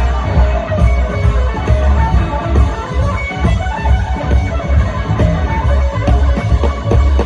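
Live blues band playing an instrumental passage: an electric guitar lead over bass and drums.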